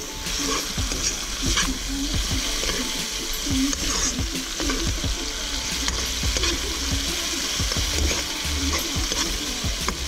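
Diced tomatoes sizzling steadily in hot oil in a wok, with a metal spoon stirring and scraping against the pan now and then; the tomatoes are cooking down and releasing their juice.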